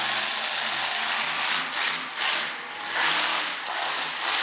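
Monster truck engine revving in repeated surges, a harsh rasping noise that swells and falls back several times.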